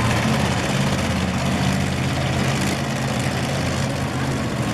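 Monster truck engine running steadily at low revs, a deep, even drone with no revving.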